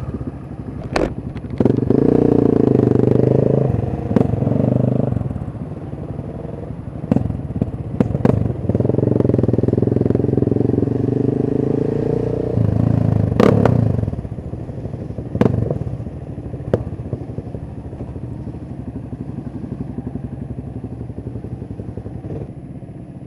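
Kawasaki EN500 Vulcan's parallel-twin engine heard from the rider's camera, pulling hard twice and then dropping back to a quieter steady run. Sharp clicks and knocks are scattered through it.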